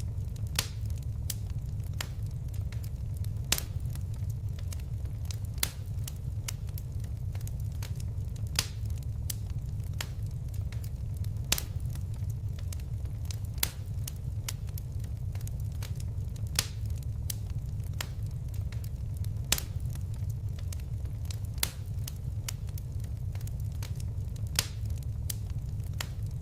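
Wood fire crackling: a steady low rumble of flames with irregular sharp pops and snaps, a few of them louder than the rest.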